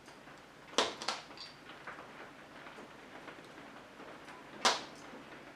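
Sharp knocks of a toy number piece being handled: two close together about a second in and a louder one near the end.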